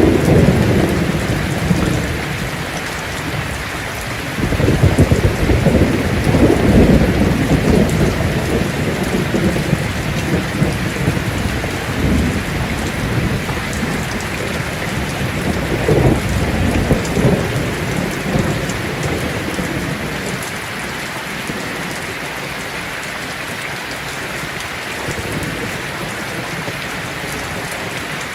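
Heavy rain drumming steadily on a tin roof, with low rolls of thunder rumbling several times in the first two-thirds and dying away near the end.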